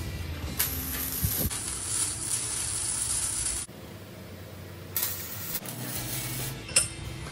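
Stick (arc) welding on steel square tubing: the electrode's arc crackles and hisses in a steady run of about three seconds, then cuts off. A shorter burst of arc crackle follows about five seconds in, with a sharp click near the end.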